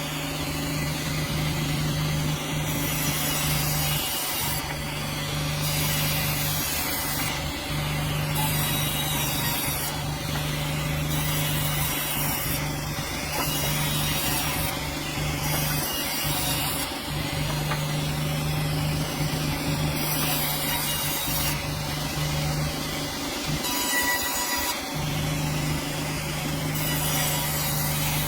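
Sawmill running and sawing through a hardwood log: a steady low machine hum under continuous cutting noise, with the hum dipping briefly a few times.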